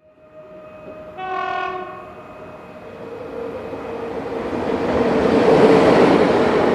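Train horn sounding one short blast about a second in, followed by the train's running noise growing steadily louder as it draws near.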